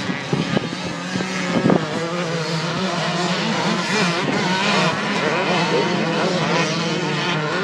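Several motocross engines revving as the machines race past, their pitches rising and falling and overlapping. A few sharp knocks in the first two seconds.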